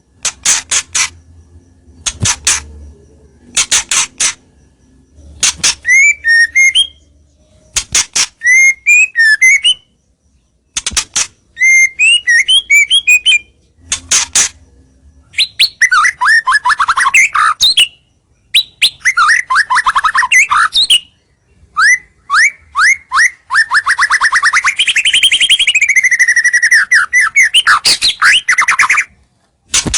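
White-rumped shama (murai batu) singing loudly: a territorial song used as a lure to draw rival shamas close. It opens with bursts of sharp repeated notes and short warbled phrases. From about halfway on come long, rapid trills that sweep up and down in pitch.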